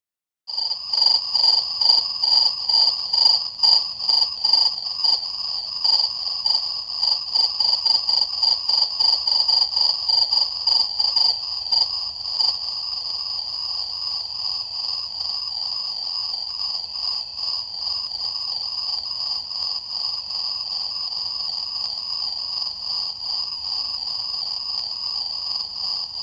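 A shrill, steady insect chorus of high trilling, rapidly pulsing for about the first twelve seconds and then evening out. It starts and stops abruptly.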